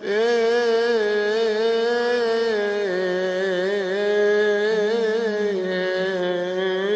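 A man's solo voice chanting one long, ornamented melisma in Coptic liturgical style, without accompaniment. The pitch wavers in small turns, steps down about three seconds in and again near six seconds, then rises near the end.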